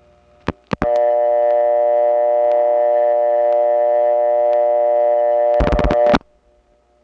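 A steady telephone tone on a 1979 step-office line, made of several pitches with a faint tick about once a second. It comes on after two clicks and is broken off near the end by a quick run of dial-pulse clicks.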